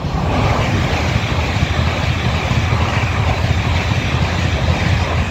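A Great Western Railway Hitachi Class 800-series intercity train passing close at speed, a loud, steady train noise that starts suddenly as the train arrives and drops away near the end as it clears.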